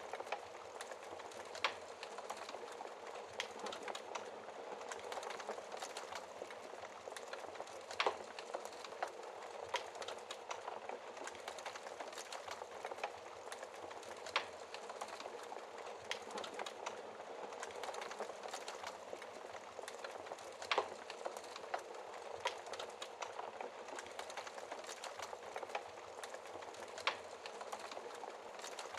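Wood fire burning in a fireplace: a steady crackling hiss with scattered sharper pops, the loudest about 8, 14, 21 and 27 seconds in.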